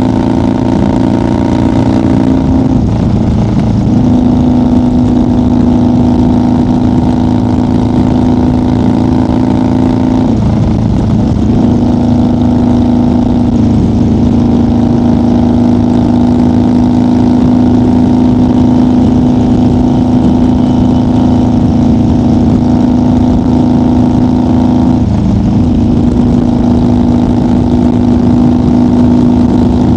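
1990 Harley-Davidson FXR's Evolution V-twin running steadily at highway cruising speed. The engine note briefly breaks and settles at a slightly different pitch three times: about two and a half seconds in, about ten seconds in, and about twenty-five seconds in.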